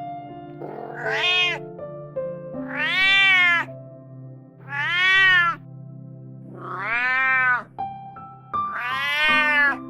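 A cat meowing five times, about two seconds apart, each meow rising and then falling in pitch, over steady background music.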